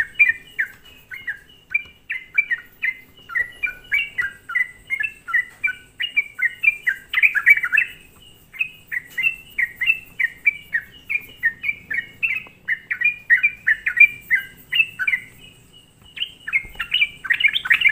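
Yellow-vented bulbul (trucukan) singing hard in a fast, unbroken run of short chattering notes, with two brief pauses, about eight and sixteen seconds in. It is a bird in full song, used as a lure call to provoke other bulbuls.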